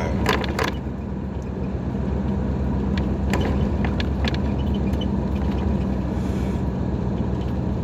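Dodge Ram 1500 pickup heard from inside the cab while driving: steady engine and road noise with a low hum, and a few light clicks or rattles in the first few seconds.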